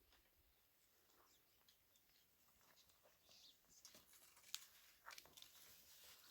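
Near silence, with a few faint scattered clicks and rustles, the clearest one about four and a half seconds in.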